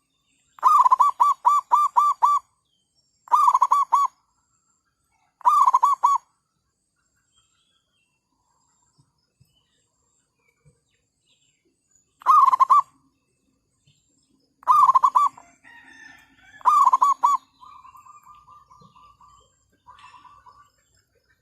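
Zebra dove (merbuk) cooing: six loud phrases of quick, repeated notes, the first of about six notes and the rest shorter, with gaps of a couple of seconds between them. Near the end comes a fainter, faster run of notes.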